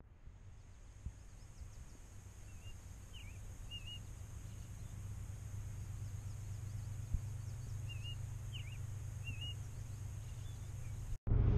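A songbird sings two short chirping phrases, a few seconds apart, over a low outdoor rumble that slowly grows louder. Near the end a much louder car driving noise cuts in abruptly.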